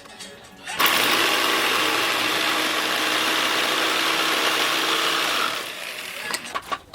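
A small electric power tool runs steadily. It starts abruptly about a second in, holds for about five seconds, then drops off near the end.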